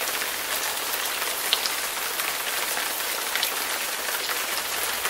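Recorded hard-rain sound effect: a steady hiss of heavy rainfall sprinkled with sharp little drop ticks.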